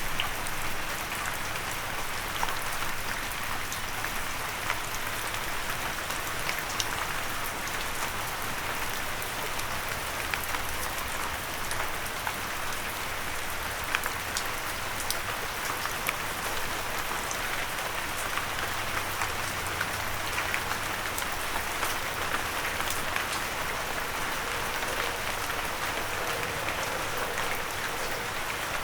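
Steady rain falling, with many individual drops tapping sharply on a windowsill over the hiss of the downpour.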